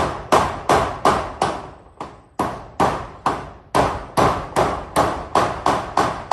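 Hammer driving nails through corrugated zinc roofing sheets: a steady run of sharp, ringing strikes, about three a second, with a short pause about two seconds in.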